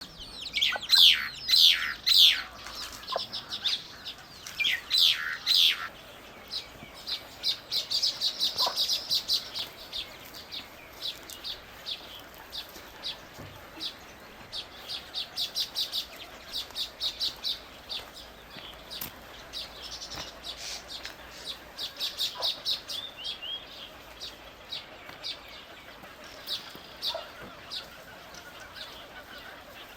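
Small birds chirping: a busy run of short, high chirps, with louder calls sweeping downward in pitch during the first six seconds.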